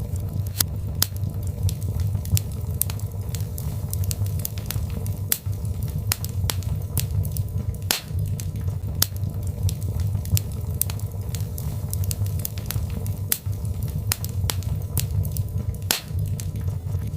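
Birchwood fire crackling in a fireplace: irregular sharp pops and snaps, several a second, over a steady low rumble.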